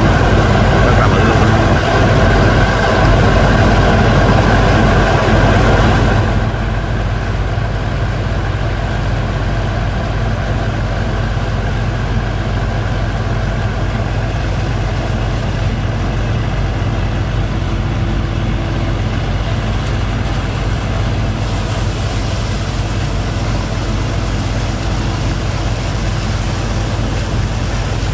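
Engine driving a sand-boat pump, running steadily; the sound drops quieter about six seconds in and then holds even.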